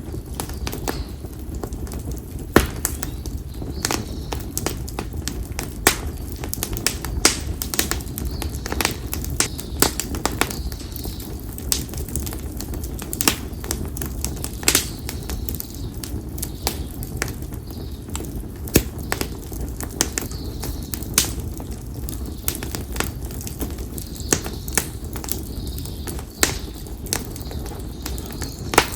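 Konara oak firewood burning in an open campfire, crackling with sharp, irregular pops and snaps several times a second over a low steady rumble. Faint bird calls come in now and then.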